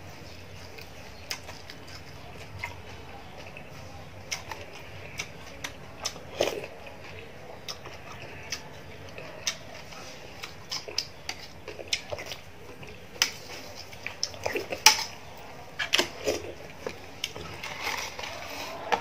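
Close-up eating sounds: chewing and crunching of crispy fried fish, with irregular sharp crackles and clicks that grow busier in the last few seconds. A spoon clinks in a plastic bowl now and then.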